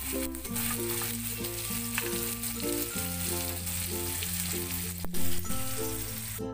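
Chillies, shallots and tomato sizzling as they fry in oil in a pan, stirred with a metal spoon. A single loud knock comes about five seconds in, and the sizzle cuts off suddenly at the end.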